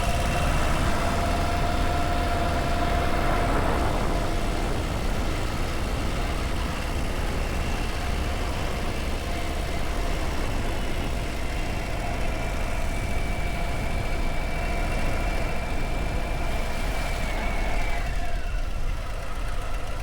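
Harley-Davidson Low Rider ST's Milwaukee-Eight 117 V-twin running on the move under steady wind and road noise. The engine note drops in pitch near the end as the bike eases off.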